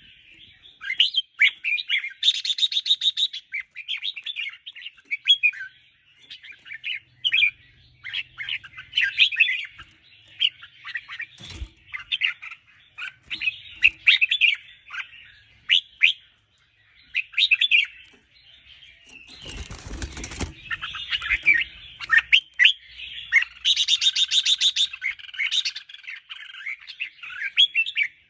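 Red-whiskered bulbuls singing, a dense run of short chirping phrases, with a fast rattling trill about two seconds in and again near the end. About twenty seconds in there is a brief rustling thump.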